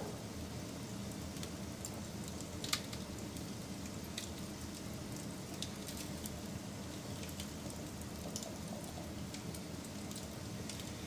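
Wood fire burning with a steady low rush and scattered crackles and snaps, one sharp pop standing out about three seconds in.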